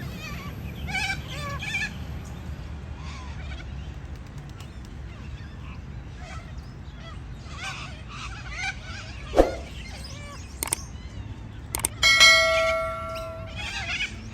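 Parrots chattering and squawking in short calls. There are a few sharp knocks, and about twelve seconds in comes one loud, metallic, bell-like ring lasting over a second.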